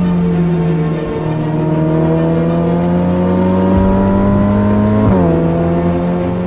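Ferrari F8 Tributo's twin-turbo V8 held at raised revs while stationary, a steady pitch, with a brief dip in revs about five seconds in before it settles again.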